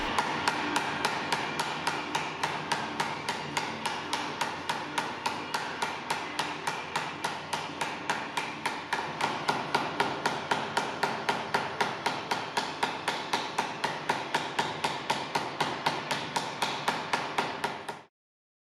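A flat smoothing hammer tapping steadily and quickly, about four blows a second, on a 3D-printed plastic forming mold sandwiching a sheet of metal, driving the metal into the logo relief. The tapping cuts off suddenly near the end.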